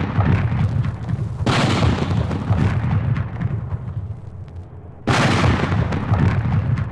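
Heavy explosions from a sound-effects record: two sudden blasts, about 1.5 and 5 seconds in, each dying away in a long low rumble, with the tail of an earlier blast at the start.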